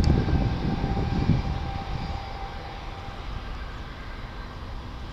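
Boeing 757 jet engines rumbling with a steady whine, fading away over about two seconds and leaving a quieter low rush.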